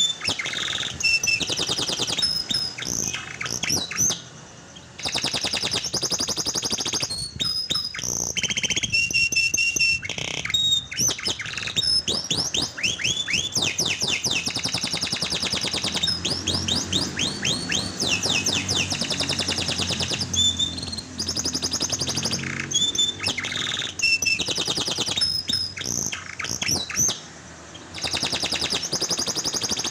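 Canary singing a long, continuous song of fast trills and quickly repeated sweeping notes, with two brief pauses. This is lure song of the kind played to coax a canary that has gone silent into singing.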